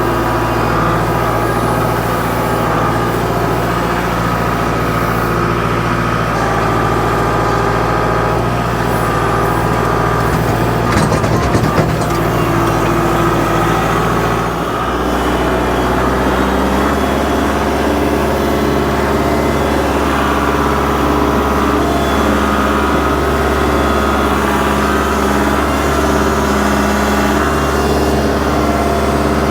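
Kubota L47 backhoe tractor's diesel engine running steadily while it digs and loads clay, with a brief rattling clatter about eleven seconds in. The engine note changes about halfway through, as the engine speed shifts.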